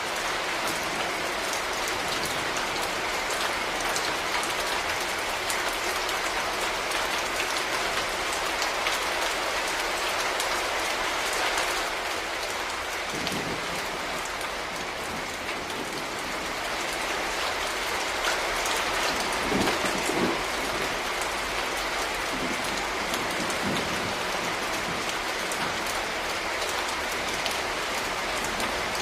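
Steady rain falling on a surface, a dense even patter of drops with individual drops ticking through it. A few soft low thuds come in around the middle and again about two-thirds of the way through.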